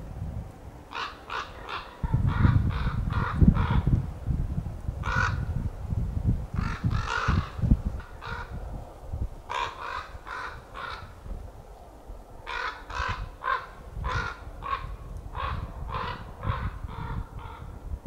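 A bird calling over and over in short, sharp calls, several in quick succession, then a pause, then another group. A low rumbling noise runs underneath and is loudest in the first half.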